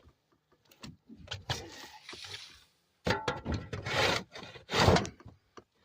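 A shovel scooping and scraping through loose sawdust and wood chips, in several rough strokes with short gaps, the strongest in the second half.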